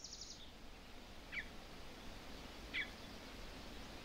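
Faint outdoor ambience: a bird gives two short chirps about a second and a half apart over a low, steady background hiss, with a brief high rapid trill right at the start.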